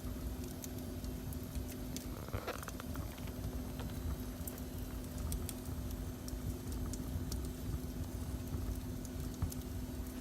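Fire burning in a fireplace, crackling with scattered sharp pops over a low rumble and a steady hum.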